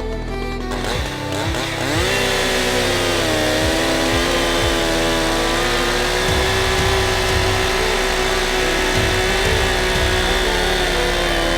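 Echo CS-621SX two-stroke chainsaw revving up between one and two seconds in, then held at a steady high pitch at high revs.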